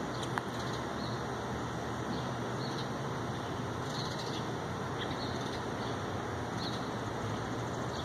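Steady outdoor background hiss and low hum, with faint, short, high chirps of small birds scattered about once a second.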